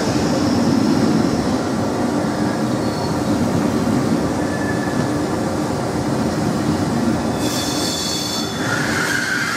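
A train running on rails with a steady rumble, and high-pitched wheel squeal that starts about seven seconds in.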